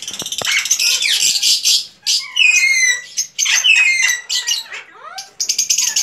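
Small caged pet birds calling: a run of rapid high chirps and squawks, several sliding down in pitch.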